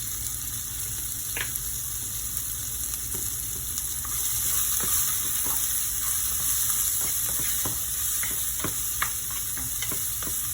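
Garlic, onion and tomatoes sautéing in hot cooking oil in a pan: a steady sizzle, with scattered clicks and scrapes of a utensil stirring against the pan.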